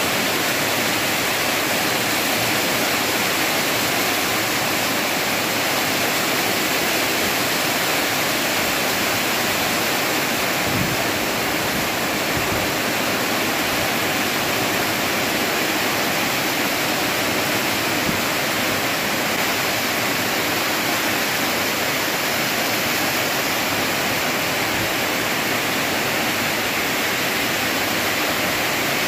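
Rain falling steadily, a dense, even hiss that doesn't let up.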